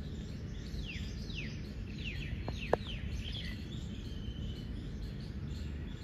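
A bird chirping: a string of short, high notes that each slide downward in pitch, over steady low outdoor background noise. A single sharp click about halfway through is the loudest sound.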